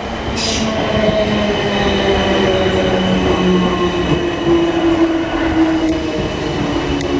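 Class 455 electric multiple unit running through the station, its traction motors giving a whine of several steady tones that slowly fall in pitch, over the rumble of the wheels on the rails. A short hiss comes about half a second in.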